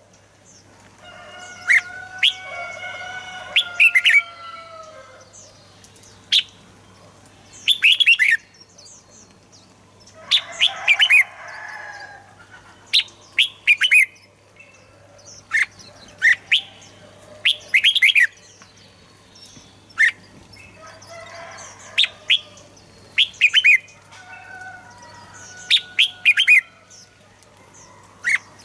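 Red-whiskered bulbuls singing: short, loud, sharp chirping phrases come about every two seconds, with softer, lower warbling song in between.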